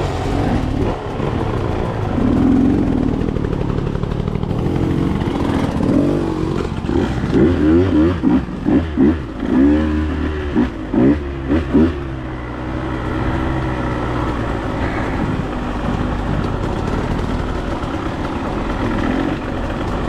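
Dirt bike engine running, with a run of quick throttle blips from about six to twelve seconds in, each rising and falling in pitch, then settling back to a steadier note.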